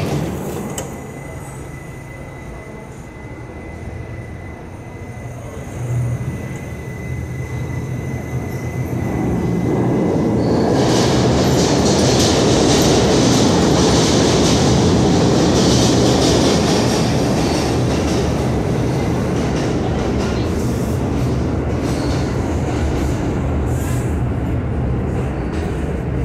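Subway train running on the rails, with a steady rumble and a thin steady tone at first. About ten seconds in, the rumble and wheel noise grow much louder, with a high hiss or squeal of the wheels on top for several seconds before easing slightly.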